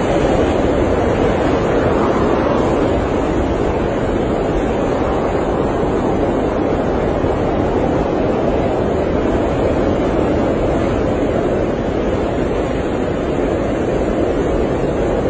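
Blizzard wind blowing steadily as a dense, even rush, swelling and easing slightly.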